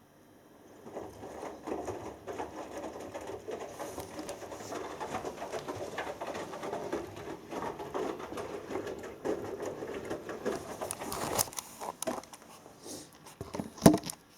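Hoover Dynamic Next front-loading washing machine drum turning a 6 kg load on a 60° cotton wash, the wet laundry sloshing and splashing in the water. It starts about a second in and dies away after about eleven seconds as the drum stops, followed by a sharp knock near the end.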